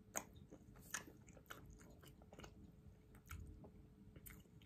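Faint close-up chewing of breaded fried plant-based chicken nuggets, with a few soft, irregular crunches.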